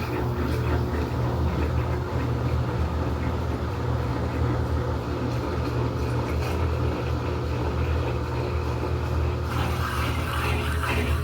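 Electrolux LED14 washing machine running its wash cycle: a steady low motor hum, with more rattling and clatter joining in near the end.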